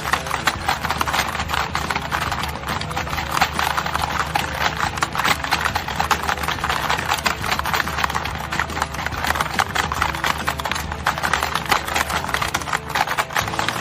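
Horse's hooves clip-clopping in quick, continuous strikes.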